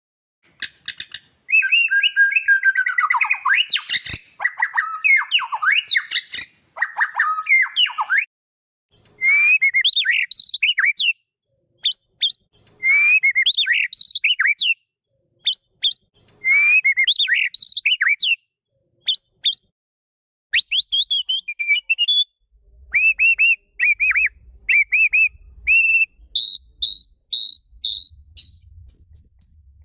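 White-rumped shama (murai batu) singing: loud, varied whistled phrases, with one phrase given three times in the middle, then runs of short, quick repeated notes that climb higher near the end.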